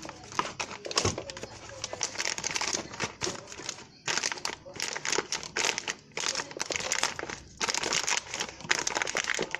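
Packaging crinkling in repeated bursts as it is handled.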